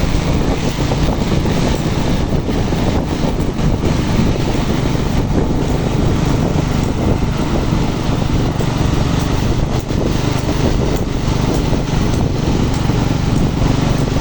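Truck engine running steadily under load while climbing a hill, a constant low drone with road and wind noise.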